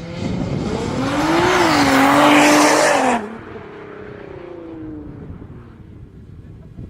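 Race car at full throttle, its engine note climbing as it speeds toward and past the listener. About three seconds in, the sound drops sharply and the pitch falls as the car speeds away and fades.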